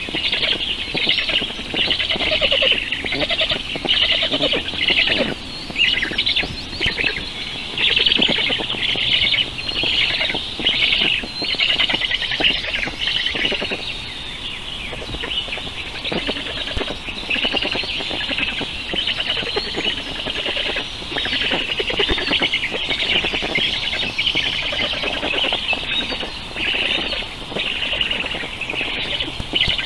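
Birds chirping continuously: a dense, unbroken stream of quick, high calls.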